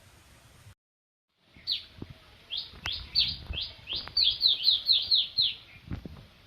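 A bird chirping a quick run of about a dozen short, falling chirps, with a few light clicks among them. The chirps start after a brief dead silence about a second in.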